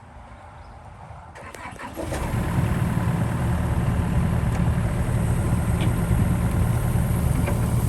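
A few light clicks, then about two seconds in the diesel engine of a John Deere 60G mini excavator starts and runs steadily.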